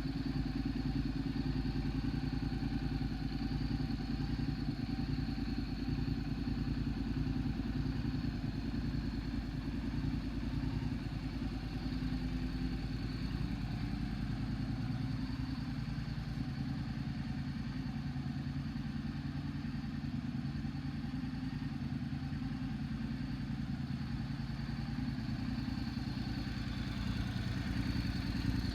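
Honda NC750S DCT motorcycle's parallel-twin engine idling steadily.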